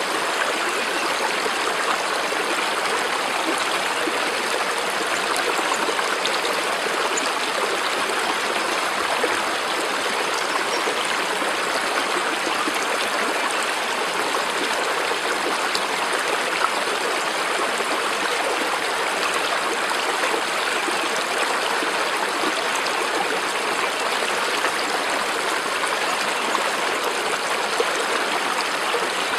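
A stream flowing steadily: an even, unbroken sound of running water.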